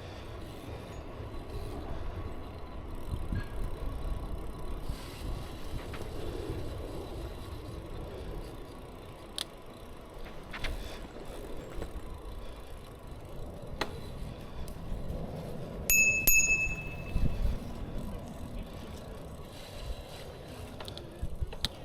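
Bicycle riding along a trail with a steady low rumble of tyres and wind, and a few light clicks. About three-quarters of the way through, a bicycle bell rings briefly and rings on for about a second.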